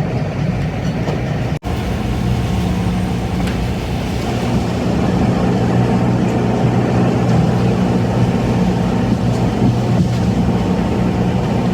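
Tour boat's engine running steadily as a low drone, with a broad rush of noise over it; the sound drops out for an instant about one and a half seconds in.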